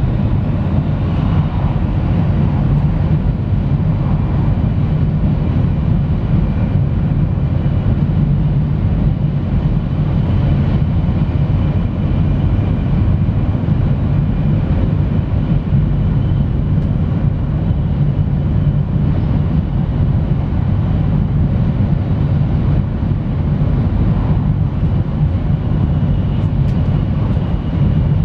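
Steady running noise of an E3 series Shinkansen train at speed, heard inside the passenger car: a constant low rumble and rush from the wheels on the rails.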